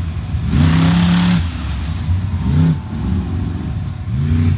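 Monster truck engine revving in repeated throttle bursts, its pitch rising three times: about half a second in, near the middle and near the end. A hiss of noise rides over the first rev.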